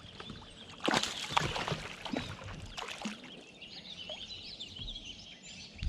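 A few sharp knocks and light water splashing around a kayak as a fish is landed. A bird sings faintly about halfway through.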